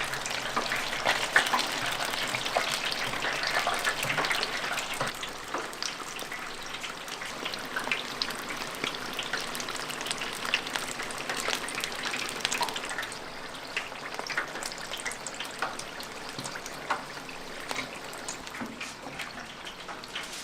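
Battered frogs deep-frying in hot oil: a steady sizzle with many small crackles and pops, a little louder in the first few seconds and then settling.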